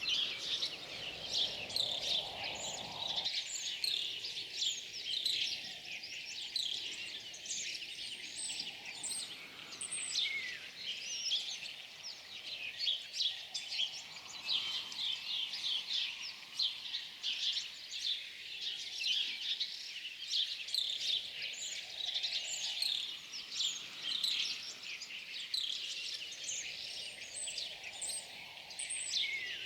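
A dense chorus of many small songbirds chirping and trilling without pause, with a soft, wind-like hiss swelling and fading underneath every few seconds.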